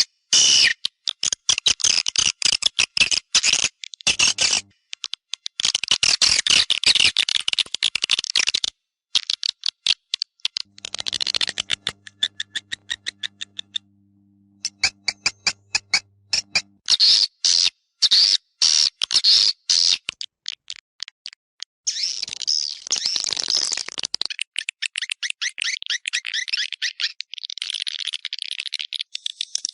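Recorded swiftlet calls of the kind played in swiftlet houses to lure the birds to nest: rapid trains of sharp clicks and high twittering chirps in bursts, broken by short pauses. A faint low hum runs under the calls for a few seconds in the middle.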